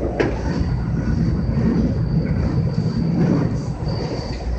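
JR West 225-5100 series electric train running along the track, heard from inside the front car: a steady rumble of wheels on rails with a thin high whine throughout and a sharp click about a quarter-second in.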